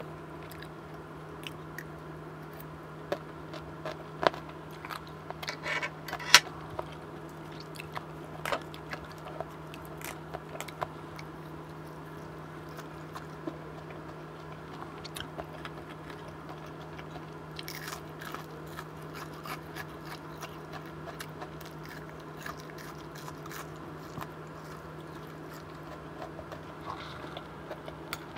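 Close-miked chewing of a crunchy mouthful of lettuce salad: scattered sharp crunches and small wet mouth clicks, thickest in the first few seconds and again about two-thirds of the way through.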